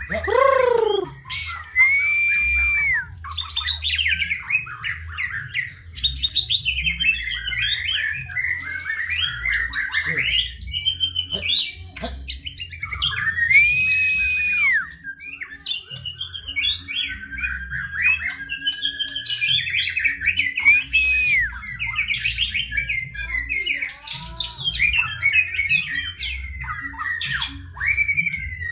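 White-rumped shama singing a long, varied song: clear held whistles that bend up and down, mixed with quick chattering and squawky phrases.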